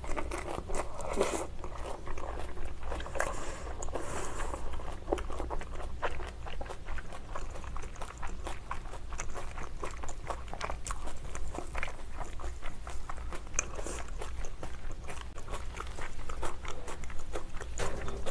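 Close-miked chewing of a mouthful of raw salmon and salad leaves: wet mouth sounds with many quick, crisp crunches.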